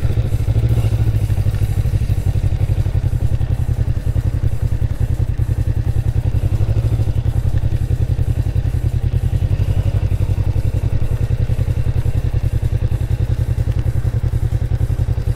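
Motorcycle engine running at low revs as the bike rolls slowly, a steady, evenly repeating low exhaust beat.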